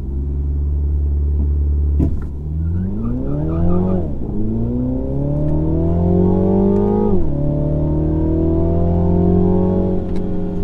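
Mini John Cooper Works hatch's 2.0-litre turbocharged four-cylinder engine, heard from inside the cabin, held at steady revs at the start line, then a sharp knock about two seconds in as the car launches. The revs climb hard under full acceleration, with the automatic gearbox upshifting twice (at about four and seven seconds), then hold high as the car pulls up the hill.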